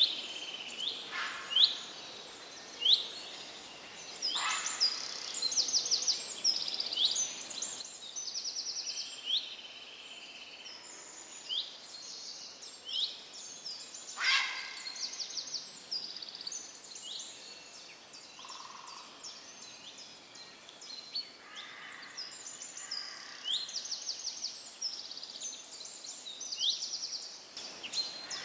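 Birdsong from several birds, chirping over and over, with quick falling whistles and short rapid trills, over a light background hiss.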